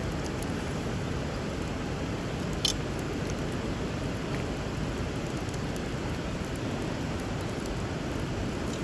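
River water running steadily under a crackling wood fire, with faint scattered crackles and one sharp pop about two and a half seconds in.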